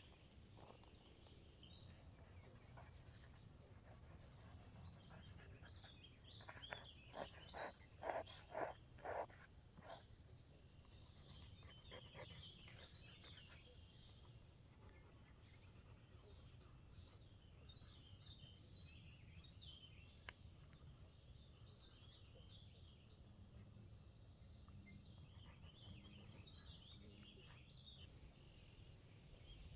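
Quiet outdoor ambience with a low rumble and small birds chirping on and off. A handful of short scratchy strokes come about seven to nine seconds in.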